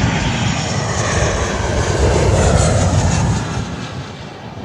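Boeing 737 airliner's jet engines passing low overhead on final approach: a loud rumble and roar that swells to its peak two to three seconds in, then fades as the jet moves away.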